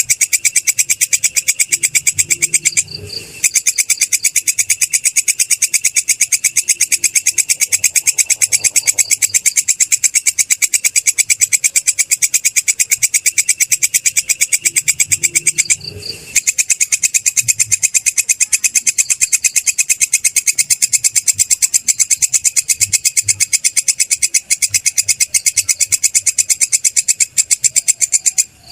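Belalang kecek (kerik) insect stridulating: a loud, shrill, rapid and even pulsing chirp that pauses briefly about three seconds in and again about halfway through.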